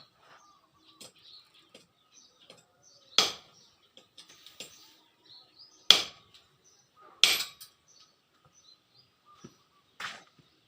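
Four sharp hammer strikes on metal, each ringing briefly, spaced unevenly a second or three apart, with lighter taps and birds chirping between them.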